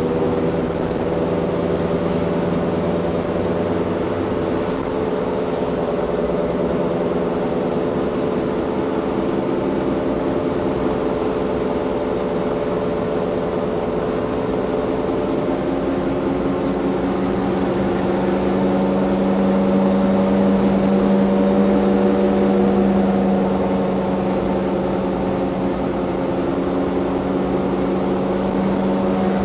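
Car engine running under way, a steady droning hum whose pitch drifts slowly and grows a little louder for a few seconds past the middle.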